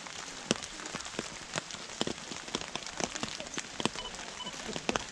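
Rain falling, with irregular sharp taps of drops landing close to the microphone.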